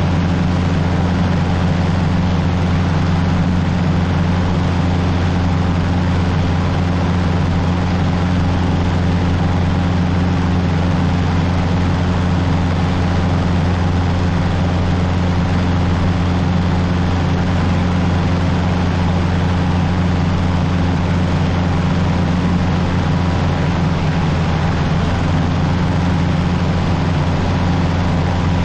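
Cessna 150's four-cylinder Continental O-200 engine and propeller droning steadily in flight, heard from inside the cabin, with a slight change in pitch about 24 seconds in.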